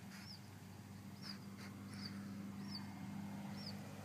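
A small songbird chirping repeatedly, one short high arched chirp about once a second, over a steady low hum.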